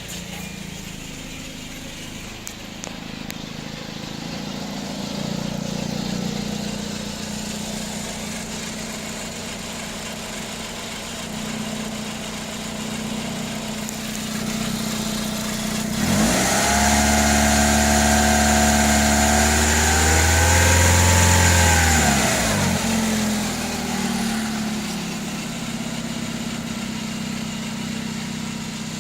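2006 Kia Rio's 1.6 L four-cylinder engine idling steadily. About halfway through it is revved once, held up for around six seconds, then drops back to idle.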